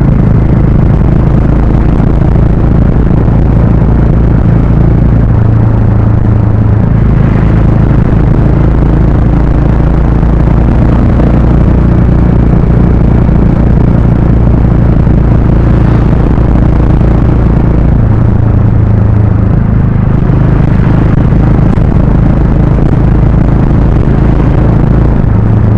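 Harley-Davidson X440's single-cylinder engine and exhaust running under way. The low note is steady, with shifts in pitch about six seconds in and again near eighteen seconds as the throttle changes.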